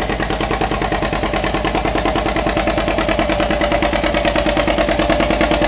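John Deere B's two-cylinder engine running with an even, rapid exhaust beat, growing slightly louder; it sounds good and healthy.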